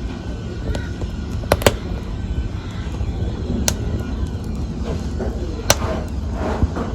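Wood fire burning in a fireplace: a steady low rumble of flames with sharp crackles and pops, the loudest pair about a second and a half in and another near the end.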